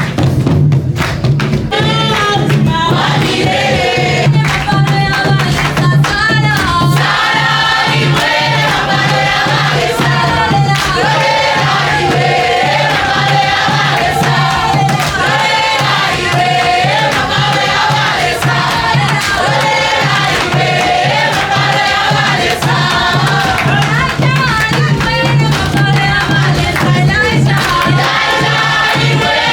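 A group of voices singing a worship song together over instrumental accompaniment with a steady low note.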